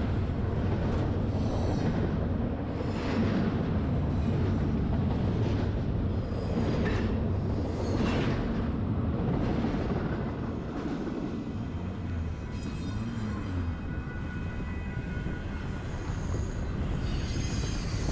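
Freight train running, a steady low rumble of locomotives and rolling cars, with faint high wheel squeal on the curve in the second half.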